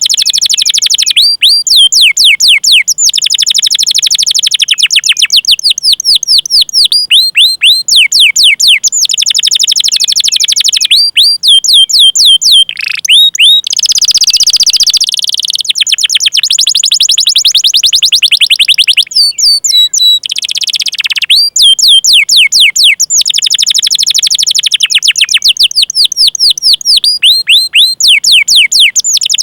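Canary singing a long, loud song: runs of quick, sharply falling 'cuit cuit' chirps alternate with dense rolling trills. A harsh buzzy note comes about midway.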